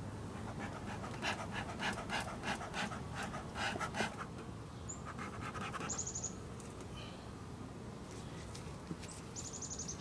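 Bee smoker's bellows pumped in quick succession, short puffs of air at about three a second for some three seconds, then stopping.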